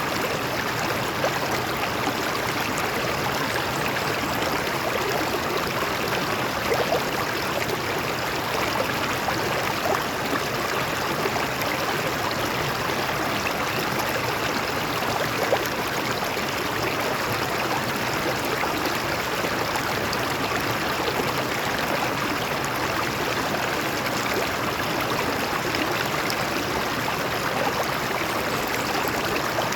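A stream of water flowing and splashing over rocks, a steady rushing with small irregular splashes.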